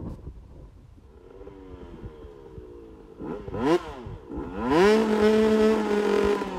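Dirt bike engine revving in surges: the pitch climbs, drops back, then climbs again and is held high and steady near the end.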